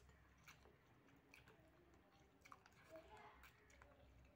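Faint chewing of a mouthful of noodles, with scattered small wet clicks and smacks of the mouth.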